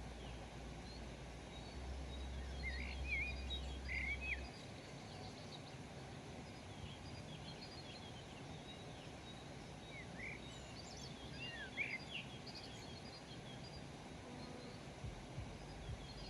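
Wild birds chirping in short, quick calls, in bunches about three seconds in and again around ten to twelve seconds, over a steady background hiss. A low hum runs under the first four seconds.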